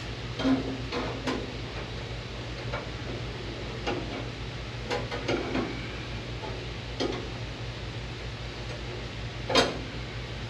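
Light metallic knocks and clinks from a sheet-metal patch panel being handled and worked, about ten scattered strikes with the loudest near the end, over a steady low hum.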